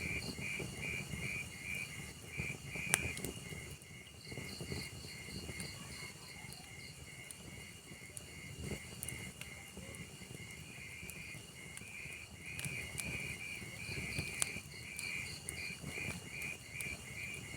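Log fire burning: a low rumble of flames with scattered crackles and sharp pops, the loudest pops about three seconds in and again near the end. Over it runs a steady, high chirping, about three chirps a second.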